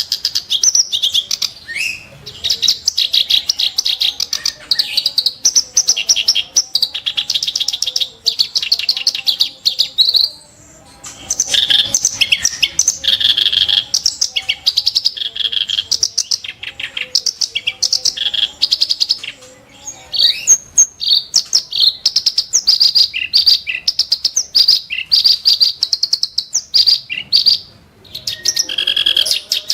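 Reed warbler (kerak basi) singing a fast, harsh, chattering song of rapidly repeated notes, in long phrases broken by short pauses about a third of the way in, about two-thirds in, and near the end.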